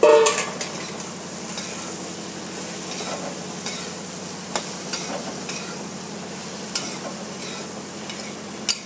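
Chopped okra frying in hot mustard oil in a wide metal kadhai, a steady sizzle. A metal spatula stirs and scrapes through it, with a few sharp taps against the pan, the loudest right at the start.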